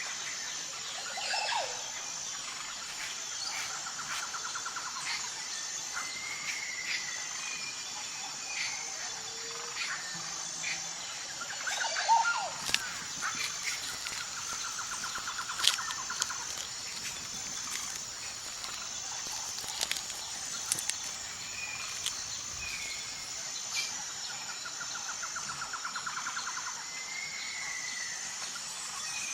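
Nature ambience of insects and birds: a steady high insect buzz throughout, with scattered bird chirps and three short trilled calls spaced about ten seconds apart, plus a few soft clicks.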